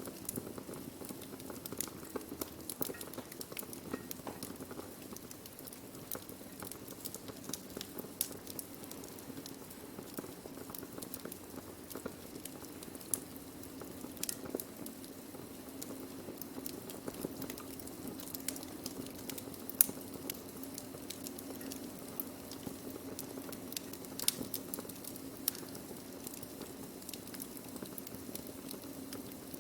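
Wood fire burning, with a steady low hiss and many irregular sharp crackles and pops from the burning wood; the loudest pop comes about two-thirds of the way through.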